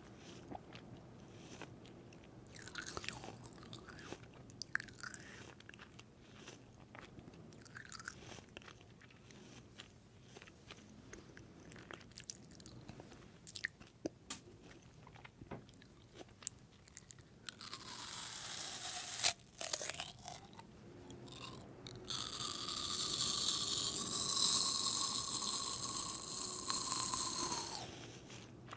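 Close-up crunching and chewing of food, with small sharp clicks. There is a brief hissing noise about two-thirds of the way in, and a louder, longer hiss from about three-quarters of the way in until just before the end.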